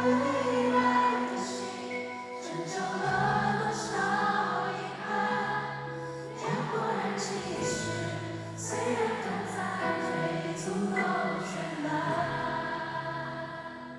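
Live pop concert music from the venue's sound system, with sustained choir-like voices over the band, fading near the end.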